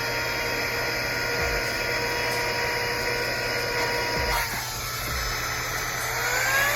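Handheld cordless car vacuum cleaner's motor running with a steady whine. About four seconds in it stops with a click. Near the end it starts again, its whine rising as it spins up.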